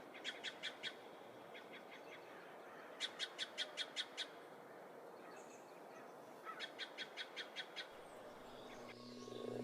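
A bird calling in quick series of short, evenly spaced notes, about six a second, in three or four bouts a couple of seconds apart, over a faint steady forest hiss.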